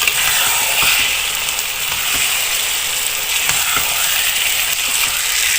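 Chicken pieces frying in hot oil and spice paste, sizzling steadily as they are stirred, with a few light knocks of the stirring spoon against the pan.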